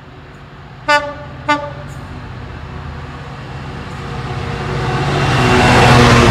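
GBRf Class 66 diesel locomotive gives two short toots of its horn about a second in, half a second apart. Its two-stroke EMD diesel engine and the running of its container wagons then grow louder, loudest near the end as it passes close by.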